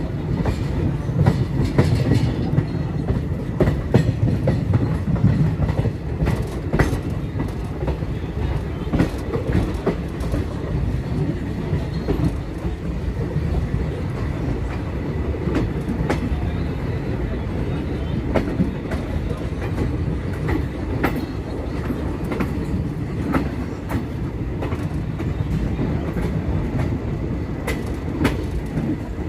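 Indian Railways train running along the track: a steady low rumble with irregular sharp clicks and clacks of the wheels over rail joints.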